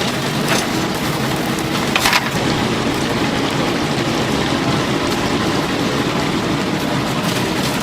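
Chicken deep-frying in a vat of hot oil, sizzling steadily, with a couple of sharp clicks about half a second and two seconds in.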